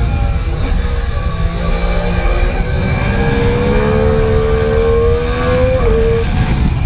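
Onboard sound of a Triumph Daytona sportbike engine at track speed over heavy wind rush on the mic: the engine note climbs steadily as the bike drives out of a corner, then drops sharply about six seconds in at an upshift.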